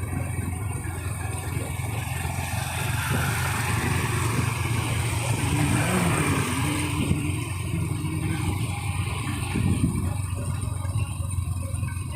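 Motor vehicle engine and road noise, steady with a low hum, swelling louder for a few seconds in the middle.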